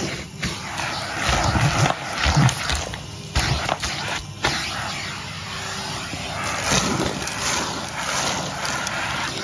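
Canister vacuum cleaner running, its hose and wand sucking up a mixed mess of debris. The rush of air dips sharply a few times and surges back.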